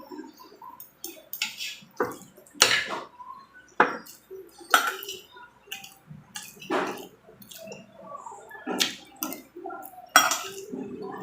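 Close-miked mukbang eating: chewing and mouth sounds from a person eating chicken sisig and mung bean stew, broken by sharp clinks of a spoon on the plate or bowl every second or so.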